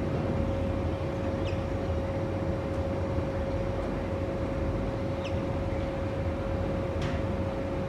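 Steady mechanical hum with a constant mid-pitched tone over a low rumble, like an idling engine or machinery. Three faint, short, high, falling bird calls.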